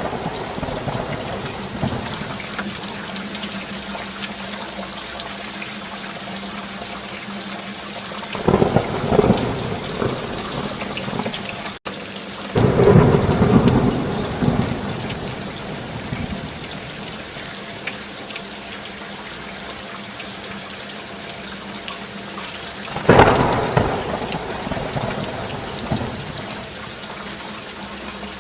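Steady rain with thunder rumbling three times, about a third of the way in, near the middle and near the end. The sound cuts out for an instant just before the middle rumble.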